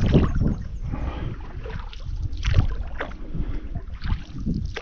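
Canoe paddle strokes splashing and dripping in the water, with wind rumbling on the microphone.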